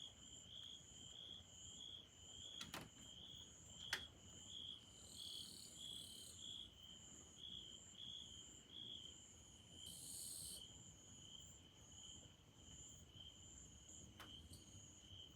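Faint insect song: a high, steady pulsing trill, about three pulses a second. Two sharp clicks come about three and four seconds in, and two brief soft hisses follow.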